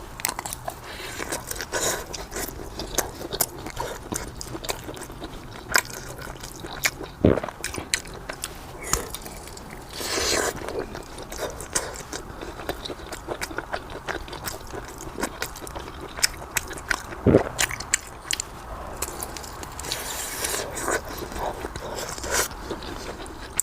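A person chewing and biting a mouthful of pork sausage close to the microphone, with many short wet mouth clicks and smacks and a couple of soft knocks.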